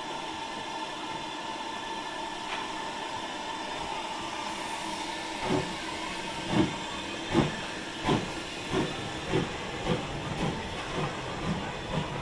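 Steam locomotive hissing steadily, then starting away with exhaust chuffs that begin about five seconds in and quicken from roughly one a second to two a second as it gathers speed.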